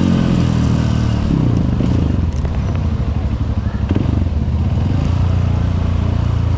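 Honda CRF150L's single-cylinder four-stroke engine. Its note drops during the first second or so as the bike slows, then it runs low and steady.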